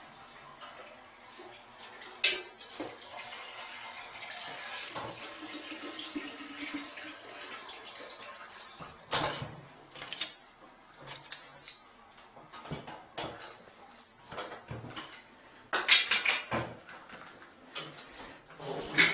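Metal clanking and clattering during drain work, with running, splashing water for a few seconds early on. There is one sharp knock about two seconds in and a louder burst of clatter near the end.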